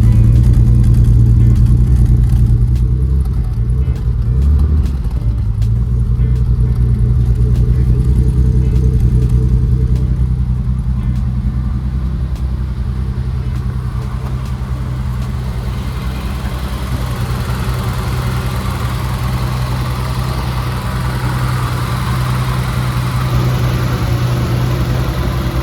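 BMW 535's straight-six engine running steadily with a low exhaust note.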